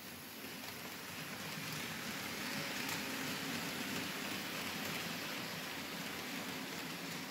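Märklin H0 model freight train rolling past on stamped-metal M-track: a steady rushing rumble of wheels and motor on the track, growing louder over the first couple of seconds and then holding.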